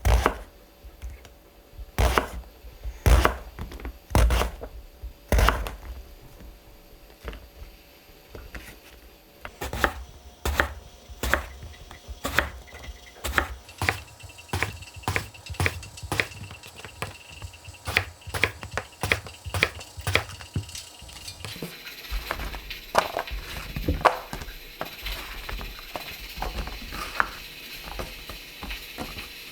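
Knife chopping on a cutting board: a series of sharp knocks, a few loud ones at first, then a quicker run of about two a second. About two-thirds of the way in, a steady hiss joins the chopping.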